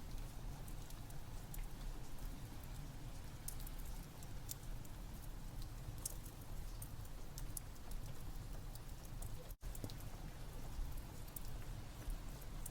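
Steady rain ambience mixed with a crackling wood fire: a continuous rain hiss and low rumble with scattered sharp pops. The sound cuts out for an instant about three quarters of the way through.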